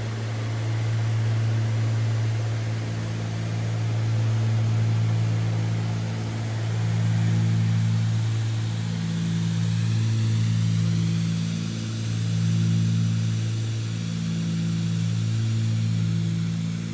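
Cessna 310 cabin in cruise: the twin Continental IO-470 engines and propellers give a steady low drone. The drone swells and fades about every two and a half seconds, the beat of two propellers that are not quite synchronised.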